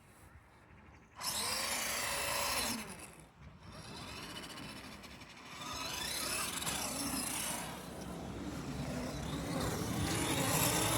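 A radio-controlled monster truck's electric motor whining as it is driven hard, with its tyres running on concrete. After about a second of near quiet the motor bursts to full throttle, then keeps whining in repeated rising and falling pitches as it speeds up and slows down.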